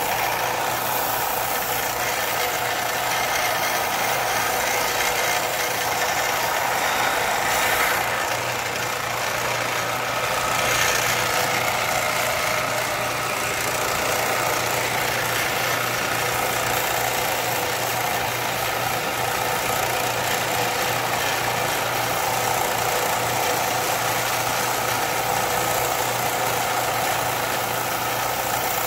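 A machine running steadily: a constant low hum under an even hiss, swelling slightly a couple of times.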